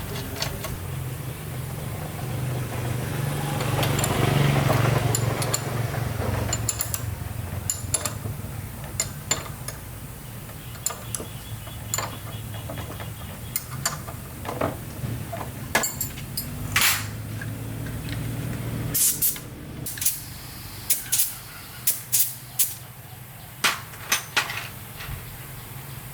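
Motorbike-repair work: a steady low mechanical hum with scattered clicks, swelling about four seconds in, then a run of about ten sharp knocks or taps near the end.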